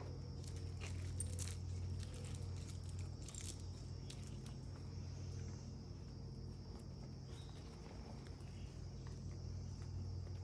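Paper pages of a handmade junk journal being handled and turned, with soft crackles and rustles mostly in the first few seconds, over a steady low hum and a constant high-pitched drone.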